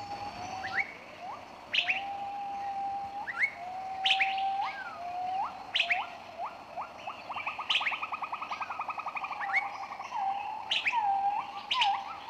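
Birdsong: repeated clear whistled notes, some held level and others flicking sharply upward, with a fast rattling trill in the middle.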